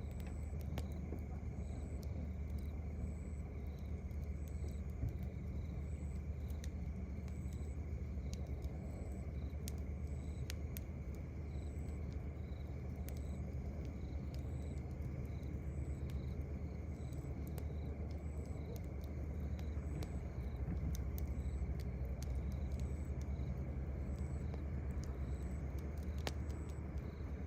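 Campfire crackling with scattered sharp pops, over a steady low rumble, while crickets chirp about once a second.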